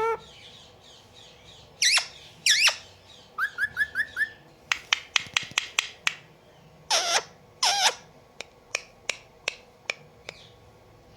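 Indian ringneck parakeet calling: a couple of screechy squawks, a quick run of five short rising chirps, then a fast string of sharp clicking notes. Two longer screeches follow, and then scattered single clicks.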